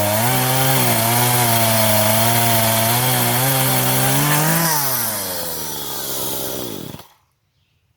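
Chainsaw running under load in a homemade mini Alaskan chainsaw mill, ripping along a log with a regular cross-cut chain. About five seconds in the engine note falls away, and it stops about seven seconds in as the cut is finished.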